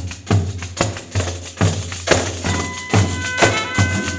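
Pandeiro ensemble opening a coco rhythm: deep thumps about two and a half times a second, with jingle strokes between them. Steady pitched notes join about halfway through.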